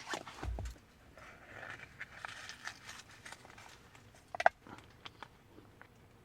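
Small items being handled, likely cooking gear and food being set out: soft rustling and a few light knocks, with a sharper click about four and a half seconds in.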